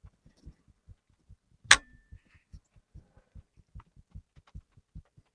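Heartbeat sound effect: soft, low, paired thumps in a steady fast rhythm, about two and a half beats a second. A single sharp click sounds once, about a second and a half in.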